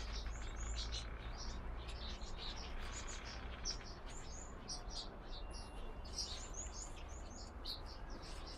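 A flock of small birds chirping, many short high calls overlapping one another almost without pause, over a steady low rumble.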